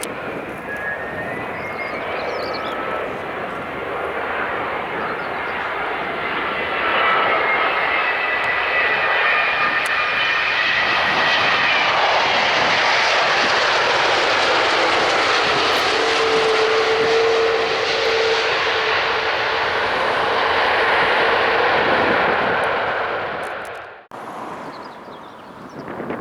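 Jet airliner's engines passing by: a loud roar with high whining tones that slide down in pitch, swelling through the middle and fading, then cut off suddenly near the end.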